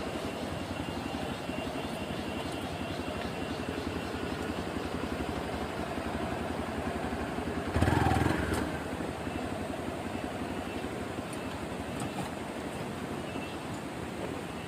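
Hero XPulse 200 motorcycle's single-cylinder engine running steadily, with a short louder surge about eight seconds in.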